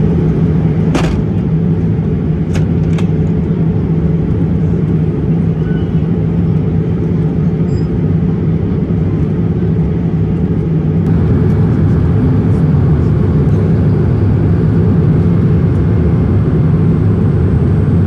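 Steady low drone of a Boeing 787-8 airliner's cabin noise from the engines and airflow, with a hum under it. A few light clicks come in the first few seconds, and the hiss grows slightly about eleven seconds in.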